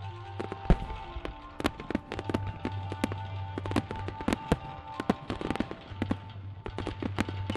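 Aerial fireworks bursting in rapid succession, sharp bangs and pops, over music playing through the show's speakers. The biggest bang comes under a second in.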